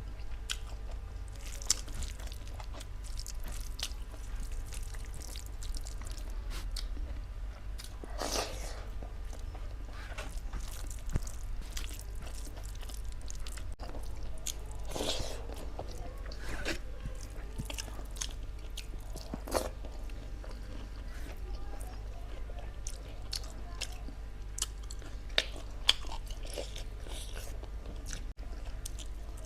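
A person chewing and biting cooked meat, with wet mouth sounds, a steady patter of small clicks and occasional crunches. A steady low hum runs underneath.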